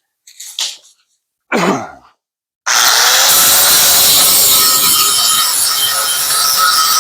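A few short scuffing sounds, then a little under three seconds in a power grinder starts up and runs loudly and steadily against the sheet metal of a truck bed panel.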